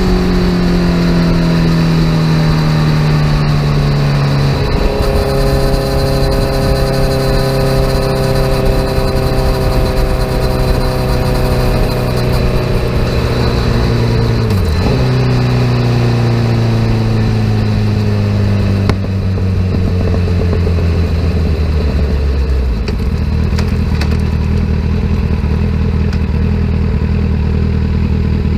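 2017 Kawasaki Z900 inline-four running through an aftermarket full exhaust as the bike slows. The engine note falls gradually, with a short dip and pick-up about halfway through, as in a downshift. About five seconds before the end it drops to a lower, steady note like an idle.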